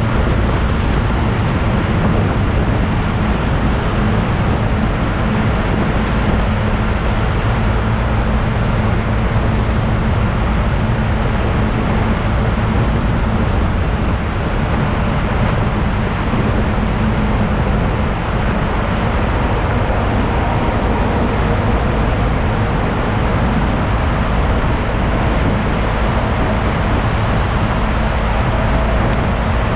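Steady drone of a moving motorcycle: the engine holds an even note at constant speed, under heavy wind rush and road noise.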